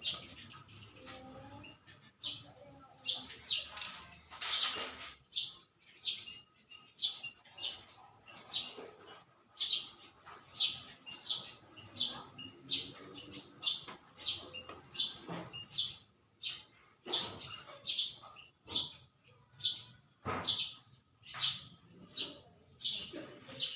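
Small birds chirping repeatedly, short high chirps about one to two a second, with a brief rustling noise about four seconds in.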